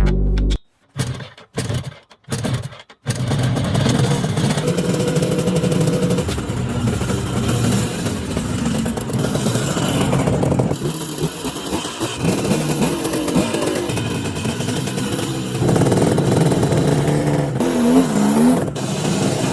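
Restored motorbike's 1960s two-stroke engine: a few short bursts of sound, then from about three seconds in the engine runs continuously, its level shifting, with a brief rev near the end.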